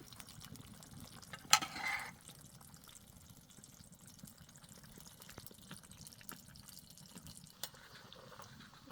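A sharp clink followed by a short splash of liquid being poured, then faint scattered clicks and drips.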